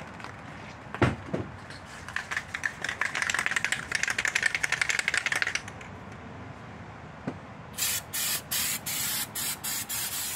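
An aerosol can of cooking oil spray is fired in a quick series of short hissing sprays, about three a second, beginning near the end. The oil coats the bare machined metal of an engine block. Before that comes a knock and then a few seconds of fast rattling.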